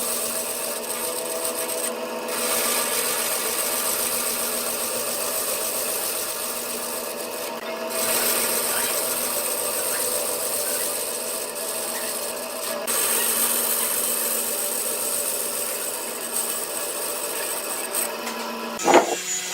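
Wood lathe running while a turning tool cuts and scrapes the spinning wood: a steady motor hum under a dense rasping hiss. The sound shifts abruptly a few times, and there is a sharp knock near the end.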